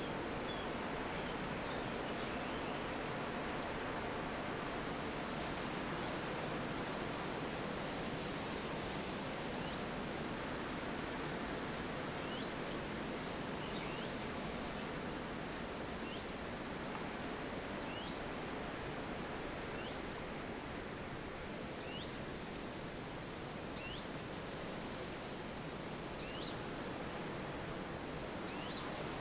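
Steady wind through forest trees. From about midway, a bird repeats a short rising chirp roughly every two seconds.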